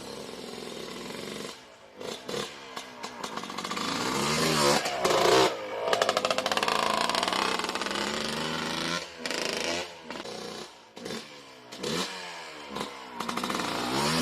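Yamaha Blaster's single-cylinder two-stroke engine running and being revved, its pitch rising and falling in repeated throttle blips, with a longer stretch at higher revs in the middle.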